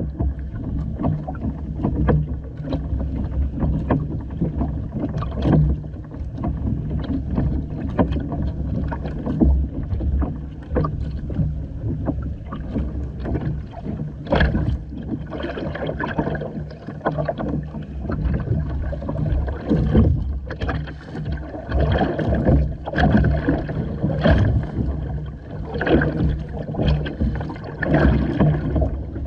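Water splashing and slapping irregularly against the hull of a Hobie Island sailing kayak under way, over a steady low hum.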